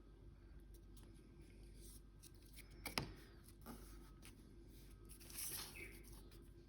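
Faint handling of small paper labels and model bases on a tabletop: a single sharp click about three seconds in and a brief scrape a couple of seconds later, over quiet room tone.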